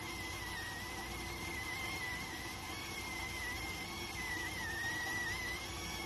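Electric rice cooker whistling as its steam escapes: one continuous high whistle that wavers slightly in pitch, over a steady hiss.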